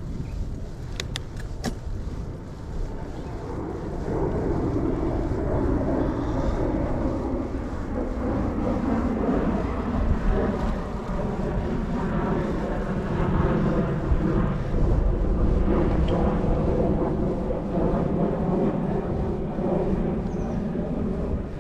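Riding noise from a bicycle: wind rumbling on the microphone and motor traffic, which grows louder about four seconds in and keeps running. A few sharp clicks come near the start.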